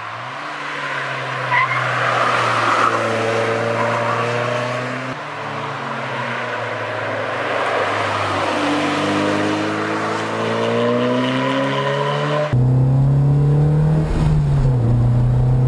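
Sports car engines coming up a winding road, the pitch climbing as they accelerate through the gears, with a gear change about five seconds in. About twelve seconds in the sound cuts to a louder, steady engine drone heard from inside the open car.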